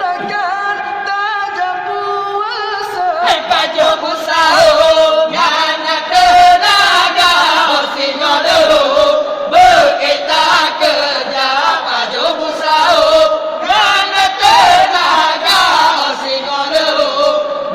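Group of young men chanting a sahur wake-up song together. A single sustained, wavering voice is heard for the first three seconds or so; then the group comes in with percussion beats.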